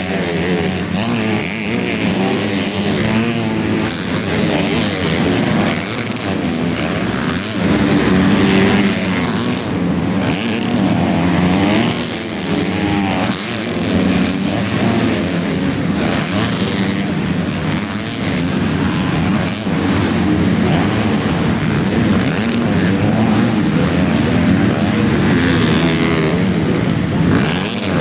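Several motocross bikes racing, their engines revving up and down in overlapping waves as riders accelerate and shift around the track.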